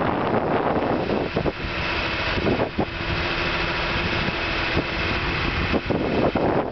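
Engine of a skid steer running steadily, with a few short knocks and clanks over it.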